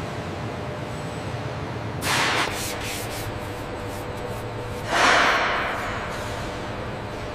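Two bursts of hissing noise over a steady low hum: a short one about two seconds in, and a louder, longer one about five seconds in that fades away over a second.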